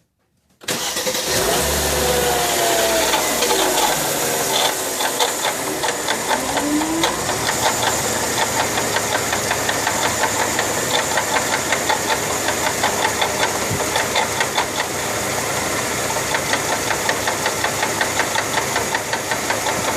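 2004 Mercedes C240's V6 engine starting up just under a second in and then idling, with a wavering whine over the first few seconds and a fast, even rhythmic knocking rattle throughout: the sound of a failed water pump bearing.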